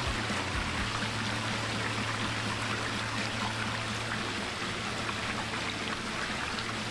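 Water running steadily over a backyard pond's waterfalls and fountain rocks, a continuous splashing trickle.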